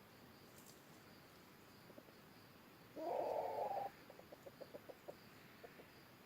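Red junglefowl calling: one loud call just under a second long about three seconds in, followed by a quick run of short clucks.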